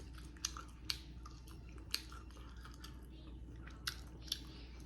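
Close-miked chewing and mouth smacks as fried chicken meat is picked and sucked off the bone, with about five sharp wet clicks at irregular intervals.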